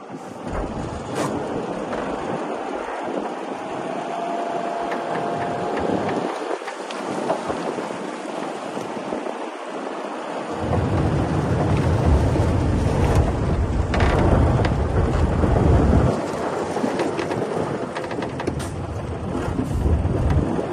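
Heavy earthmoving machinery working stone: a continuous rattling, crunching rumble of rock. A deep low rumble sets in about halfway through and drops away again a few seconds later.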